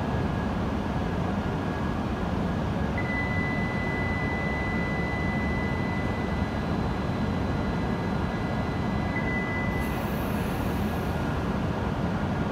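E7 series shinkansen train standing at a station platform, its onboard equipment running with a steady low hum. A steady high-pitched electronic tone sounds for about seven seconds in the middle, and a short high hiss follows about ten seconds in.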